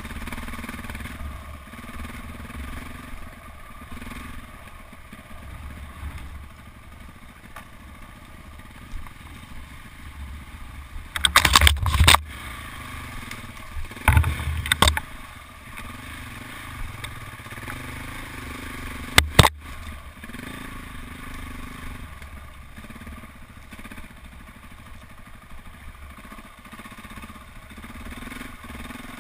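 KTM 400 EXC single-cylinder four-stroke enduro engine running steadily as the bike is ridden along a rough, overgrown track. Three bouts of loud, sharp clatter and knocking break in partway through.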